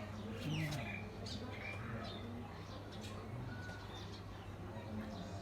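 Small birds chirping: a few short, quick, falling chirps in the first couple of seconds, then a brief thin whistle later, over a faint steady low hum.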